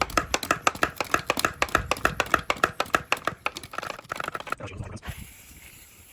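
Hand pump-up garden sprayer being pumped up to pressure, a fast regular run of squeaky strokes that stops about five seconds in.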